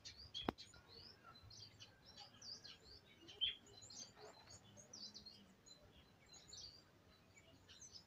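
Several birds chirping faintly: many short, high calls overlapping and scattered throughout, with one louder chirp midway. A single sharp click sounds about half a second in.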